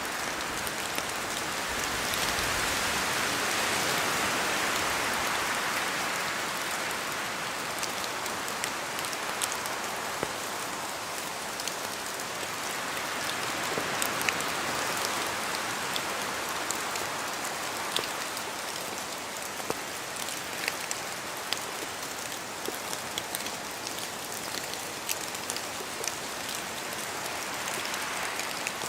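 Rain falling in a spruce forest: a steady patter with many single heavy drops ticking down from the branches, more of them in the second half. Wind through the trees swells for a few seconds near the start and again near the end.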